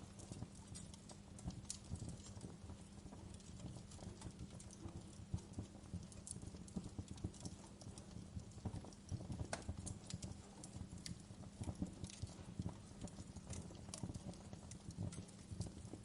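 Wood fire crackling: irregular small pops and snaps, a few sharper ones, over a low steady rumble.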